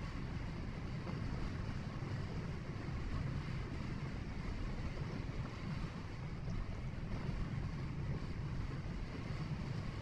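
Steady low rumble of a car's engine and tyres on the road, heard from inside the cabin while driving, with a fainter hiss of road and wind noise above it.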